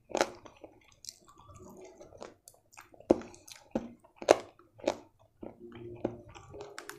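Close-miked chewing of a mouthful of food, with sharp wet mouth smacks and clicks coming at uneven intervals.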